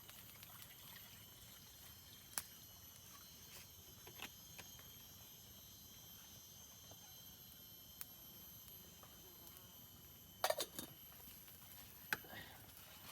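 Steady high-pitched chorus of forest insects, several shrill tones held throughout. A few sharp clicks and knocks break in, with a short cluster about ten seconds in and another near the end.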